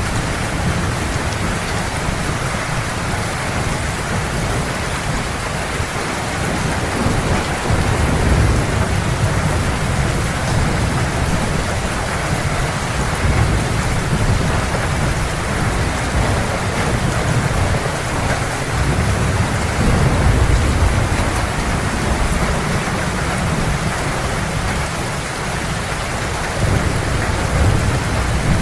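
Heavy rain falling steadily, with low rolling thunder rumbling underneath that swells several times.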